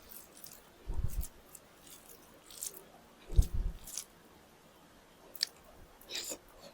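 Close-up eating sounds: chewing and biting into food, with wet mouth clicks and smacks and a few soft low thuds, the strongest about three and a half seconds in.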